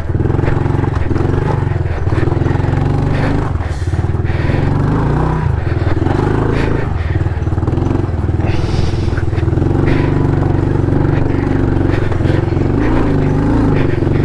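Honda CRF110 pit bike's small single-cylinder four-stroke engine running under load, its pitch rising and falling as the throttle is worked. Scattered short knocks run through it, and there is a brief hiss about halfway through.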